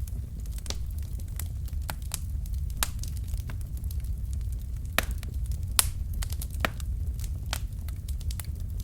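Wood fire crackling in a fireplace: irregular sharp pops and snaps from the burning logs over a steady low rumble of the flames, with a louder pop about five seconds in and another just before six.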